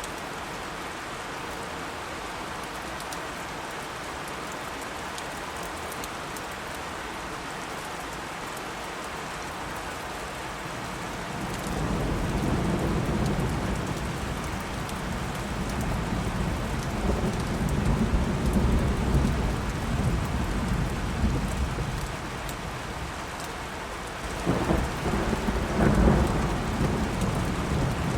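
Steady rain falling, with thunder: a long low rumble rolls in about eleven seconds in, and a second, sudden and louder rumble breaks near the end.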